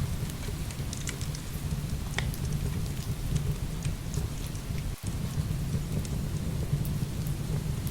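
Heavy rain pouring steadily over a deep low rumble, with the small sharp crackles of burning firewood scattered through it. The sound dips out for an instant about five seconds in.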